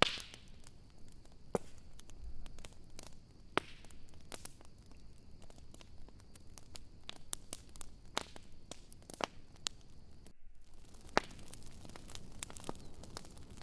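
Wood campfire crackling, with irregular sharp pops and snaps over a low hiss; the loudest pop comes right at the start. The sound drops out for a moment about three-quarters of the way through.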